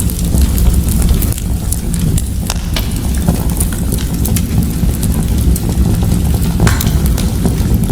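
Fire in a fireplace crackling, with many small irregular pops over a steady low rumble and one louder pop near the end.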